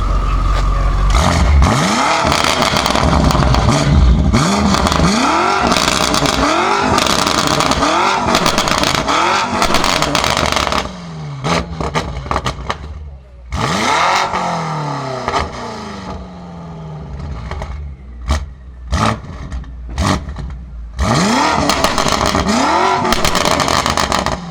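BMW M5 F90's twin-turbo V8, breathing through a SuperSprint exhaust, blipped in a quick run of short revs for about ten seconds. After that come a few slower single revs with sharp crackles and pops from the exhaust in the gaps between them.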